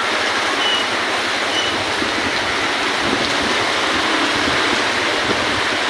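Strong gusty wind blowing hard over the microphone, a steady rushing noise with no letup.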